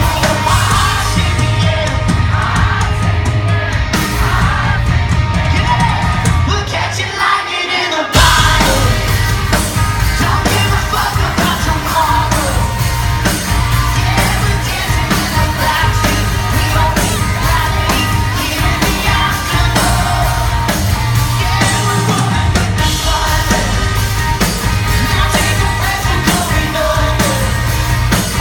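Live pop-rock band playing at full volume, with singing and crowd yells over drums, bass and guitars. About eight seconds in the drums and bass drop out briefly, then the full band crashes back in.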